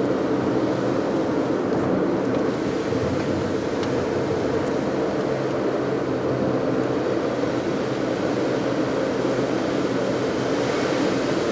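Car driving steadily on the road: a constant low engine hum under even tyre and road noise.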